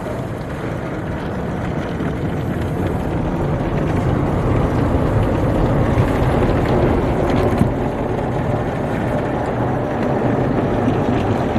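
MacNeil tunnel car wash equipment heard from inside the car: a loud, steady rush of noise over a deep hum that builds slightly, with a few knocks a little past the middle.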